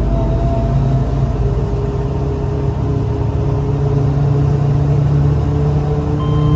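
Scania L94UA city bus engine and drivetrain running under way, a steady low drone with a whine that climbs slowly in pitch as the bus gathers speed.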